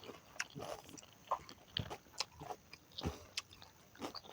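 Close-up mouth sounds of a person eating pork leg: irregular chewing with sharp wet smacks and clicks every half second or so.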